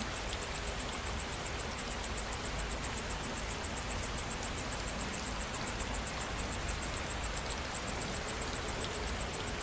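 Steady rain falling, an even hiss with no thunder. Over it an insect chirps high and fast, about five chirps a second.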